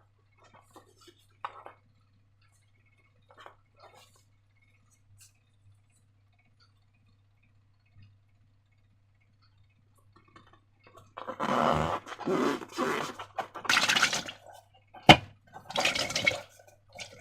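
Wet, sticky squelching and crackling of slime being worked. It is faint and sparse at first, then loud and continuous from about 11 seconds in. A single sharp snap comes near the middle of the loud part.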